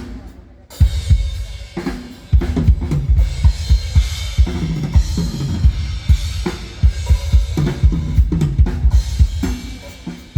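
Drum kit played during a sound check: a couple of single hits, then from about two seconds in a steady groove of bass drum, snare and cymbals.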